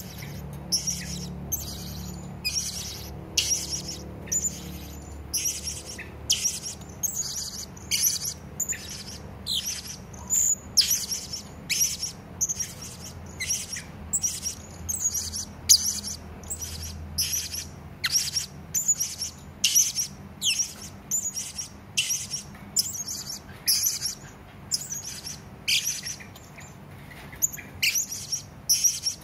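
Hanging parrot (serindit) calling: a fast, continuous run of short, sharp, high-pitched chirps, a few a second, over a faint low hum.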